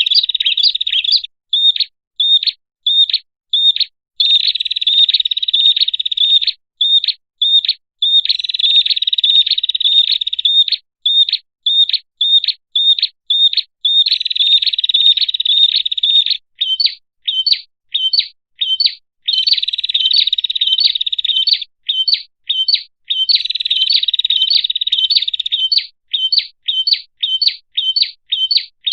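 Prenjak (prinia) song played as a bird-trapping lure. Stretches of rapid, chattering trill alternate with runs of short, sharp notes repeated about twice a second.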